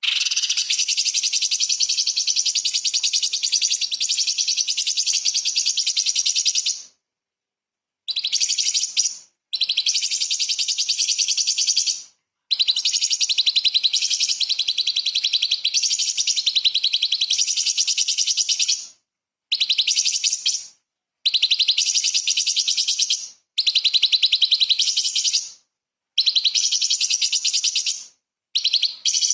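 Orange-bellied leafbird (cucak cungkok) singing fast, high chattering song in long unbroken runs of several seconds. Each run stops abruptly into a short dead silence before the song resumes.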